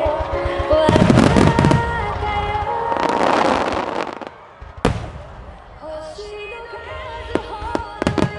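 Aerial fireworks from a music starmine barrage bursting and crackling over the show's music. A dense spell of crackling comes about a second in and a hissing wash around three seconds in. One sharp bang follows just before five seconds, and a few pops come near the end.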